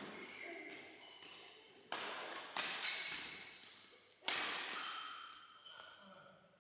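Badminton rackets striking the shuttlecock in a rally: four sharp hits over a couple of seconds, each echoing away in a large hall.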